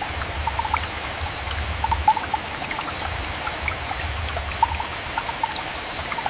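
Steady rainforest rain, heavy and even, with scattered drips and a low rumble beneath. Faint steady high tones sit over it. The sound cuts off abruptly at the end.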